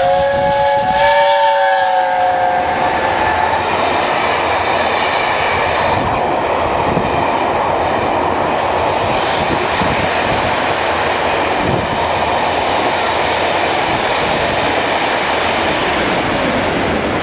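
A train's horn sounding a held multi-note chord for about three seconds, then the loud, steady rush and rumble of a train running past, which cuts off abruptly at the end.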